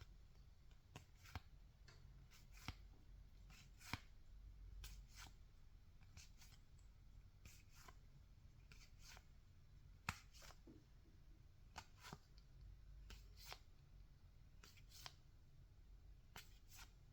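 Faint handling of baseball trading cards: short, sharp clicks and snaps as cards are flipped one by one off a pack, about one or two a second at an uneven pace, over a low steady hum.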